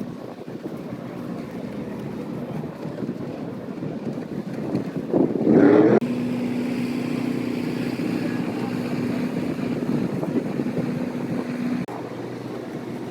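A vehicle engine running amid wind on the microphone. About five seconds in comes a brief loud burst that rises in pitch, then a steady drone that cuts off near the end.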